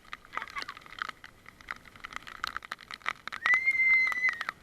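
Irregular clicks and taps, then near the end one steady high note held for about a second, a pet animal's call.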